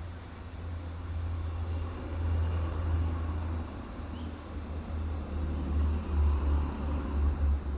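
Trucks running, a low rumble that swells about two seconds in and again near the end.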